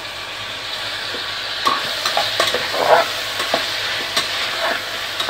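Chopped tomatoes tipped into onions frying in hot oil in an aluminium pressure cooker, sizzling, the sizzle building over the first second or so. A steel spoon stirs and scrapes against the pan with scattered clicks.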